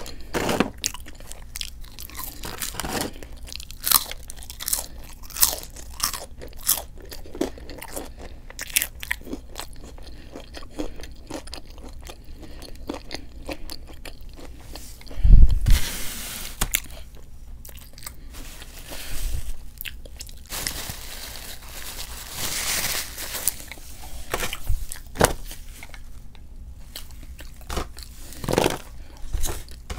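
Close-miked eating of a Raising Cane's fried-chicken meal: repeated crunchy bites and wet chewing. About halfway in a loud low bump stands out, followed by stretches of hissing noise.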